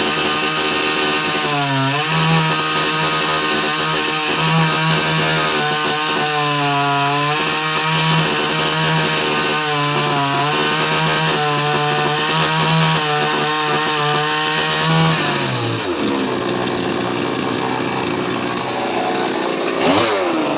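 Chainsaw engine running fast and steady, its pitch dipping briefly several times, then dropping to a lower idle about 15 seconds in, with a short rev near the end.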